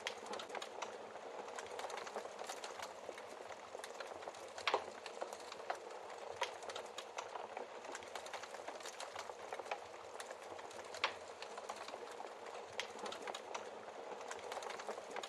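Wood fire crackling in a fireplace: a steady hiss of burning logs with many small pops and ticks, and two louder pops stand out, about five seconds in and about eleven seconds in.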